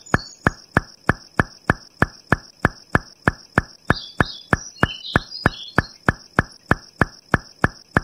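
Regular ticking, about three and a half sharp ticks a second, over a continuous high-pitched tone, with a few faint chirps about halfway through.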